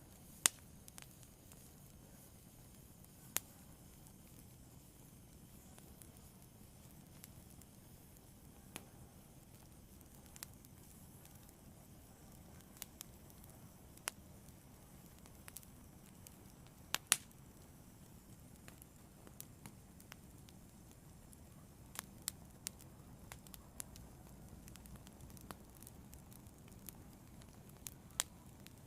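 Fire burning: a soft low rush under sharp, irregular crackles and pops, with a louder double pop about 17 seconds in.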